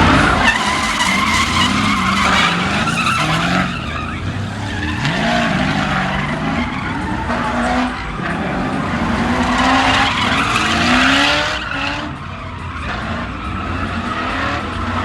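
A car spinning: its engine held at high revs, the pitch rising and falling, with the rear tyres screeching as they spin on the tarmac.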